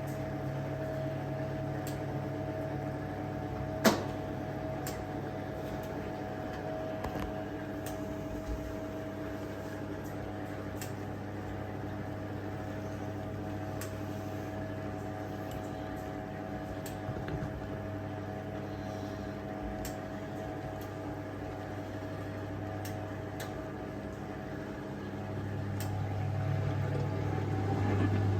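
Hoover 1400 top-loading washer's motor running with a steady hum as the load spins and drains. There is one sharp click about four seconds in, and the hum grows louder near the end.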